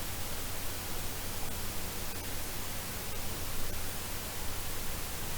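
Steady background hiss with a low hum, and a few faint ticks.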